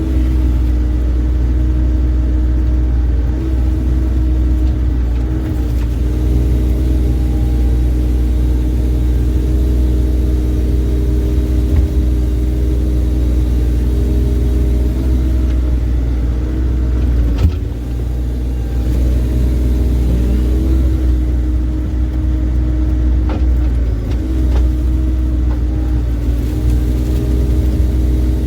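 Bobcat E35 mini excavator's diesel engine running steadily while the boom and thumb work, its pitch dipping briefly under hydraulic load several times. A single sharp knock about two-thirds of the way through.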